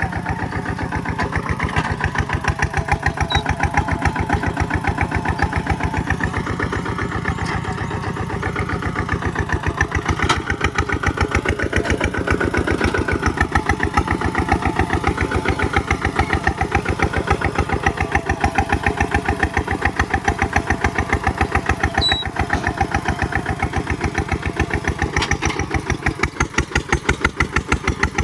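Kubota single-cylinder diesel engine of the ZT/RT series running steadily, with an even, rapid beat of firing pulses.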